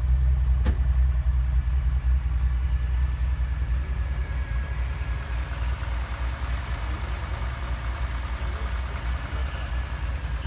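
Nissan S20 twin-cam inline-six of a Fairlady Z 432 idling, heard at the exhaust: a steady, low-pitched burble. A single sharp click about a second in.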